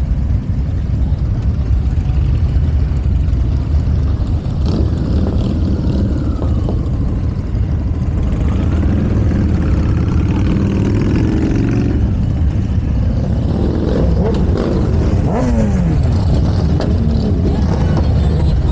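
Motorcycle engines rumbling in street traffic, with bikes revving and passing; in the second half the engine pitch sweeps up and down, with one clear falling sweep about fifteen seconds in.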